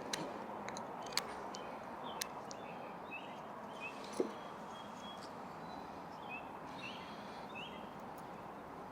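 Small birds chirping over a steady outdoor hiss, with a few sharp light knocks in the first half; the loudest comes about four seconds in.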